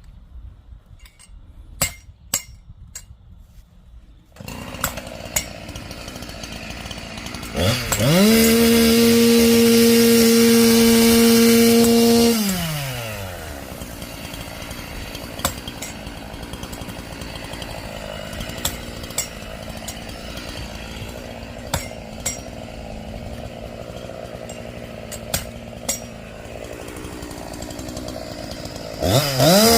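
Chainsaw starting and running at idle. About 8 s in it is revved to full throttle and held steady for about four seconds, then drops back to idle. It revs up again near the end.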